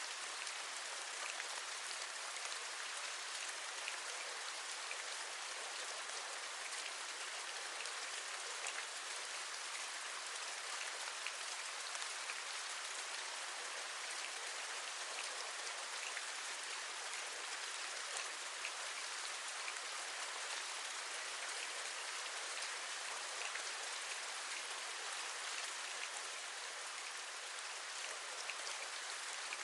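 Steady rain: an even, fine hiss with many small drop taps scattered through it, tapping on a window sill.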